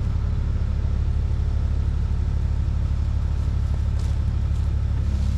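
Skid steer engine running steadily at a constant speed, a low even hum.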